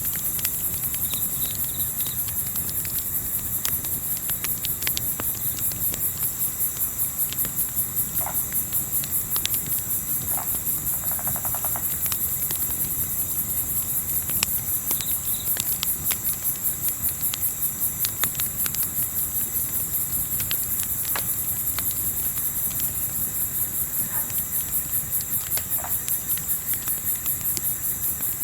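Crickets chirping steadily in a fast, even pulse, with sparse sharp crackles from a campfire and a few faint short calls from some other animal.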